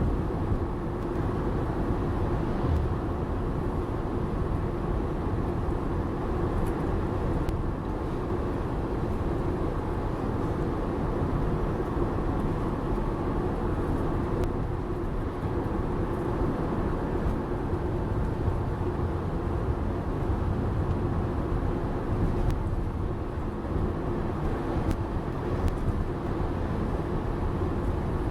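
Steady road and engine noise inside a moving car's cabin, a continuous low rumble with a few faint ticks.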